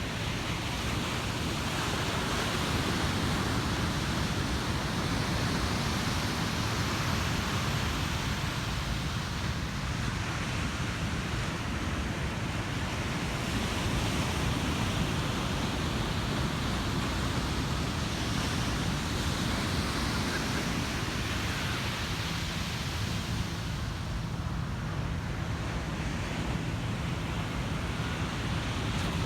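Ocean surf breaking and washing onto a beach: a steady rushing noise that swells and eases as waves come in every several seconds.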